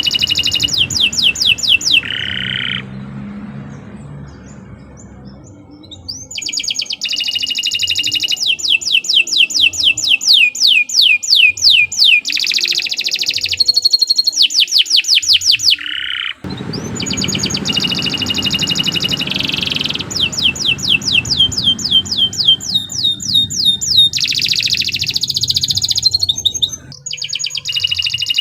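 Domestic canary singing long, fast trills of rapidly repeated high notes, with a short quieter lull about three seconds in.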